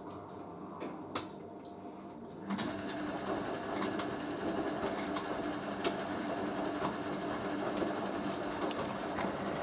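Hoover A3060 Electronic 1100 washing machine working through its wash cycle. About two and a half seconds in, a louder, steady rushing sound starts, with scattered clicks.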